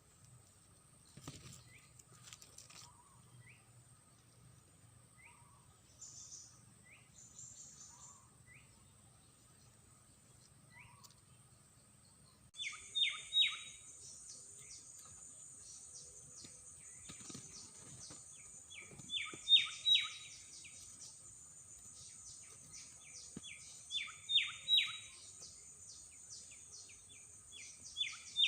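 Bird chirps: faint single short rising chirps about every second and a half, then from about twelve seconds in, loud bursts of three quick rising chirps repeated every five seconds or so.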